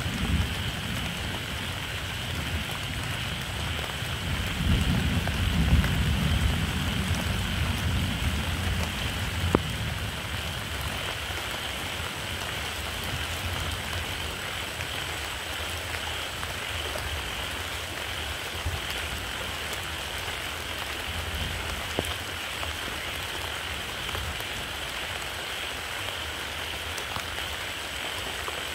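Steady rain falling, with scattered single drop hits and a low rumble swelling about five seconds in and fading by about eight.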